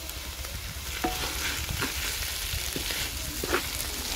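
Grated carrots frying in desi ghee in a large metal pot, sizzling steadily while a wooden spoon stirs them, with a few short scrapes of the spoon on the pot. This is the roasting stage of gajar ka halwa, after the carrots' water has cooked off.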